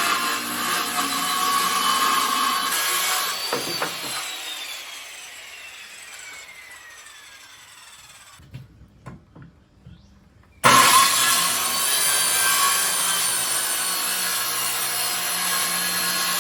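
Power saw cutting through 2x6 lumber, then the blade spinning down with a long falling whine. A few light knocks follow before the saw starts suddenly and cuts steadily again.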